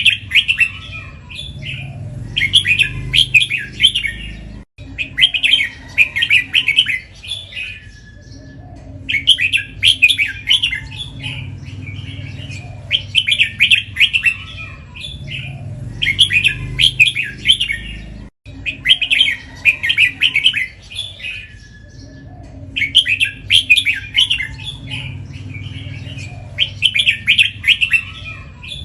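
Red-whiskered bulbul singing, short phrases of quick notes repeated back to back (doubled) every couple of seconds with brief pauses between, over a steady low hum.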